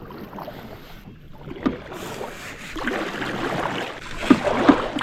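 Kayak paddle strokes splashing and dripping in the water, growing louder about two seconds in, with two sharper splashes near the end.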